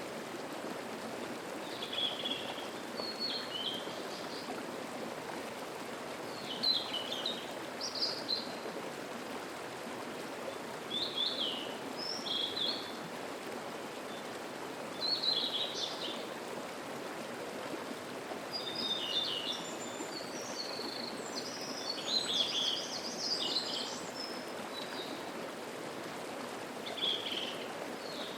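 A mountain stream flowing with a steady rushing murmur, with small songbirds singing short chirping phrases every few seconds over it. The birdsong grows busier, with several overlapping calls, a little past the middle.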